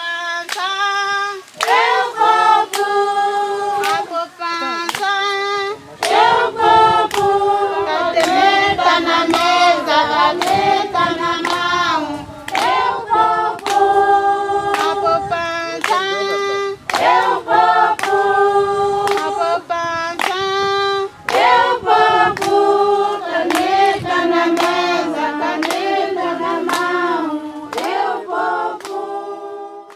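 A group of voices singing together in sustained, held notes, with hand clapping keeping a steady beat.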